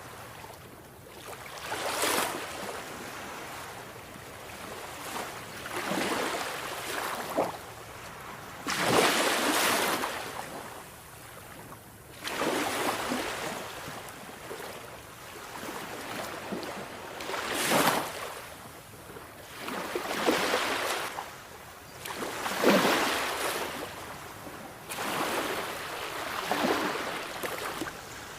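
Sea waves breaking on a shore, one after another every few seconds. Each swells into a rushing wash and then ebbs away.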